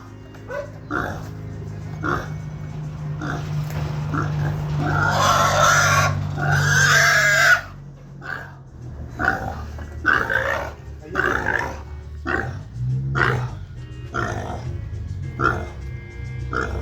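Domestic pig squealing loudly for about three seconds in the middle, with short grunting calls about once a second before and after, over a steady low hum.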